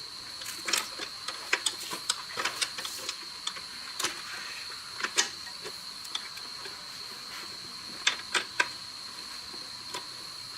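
Irregular light clicks and taps, a few loud ones about five seconds in and again about eight seconds in, over a steady high hiss.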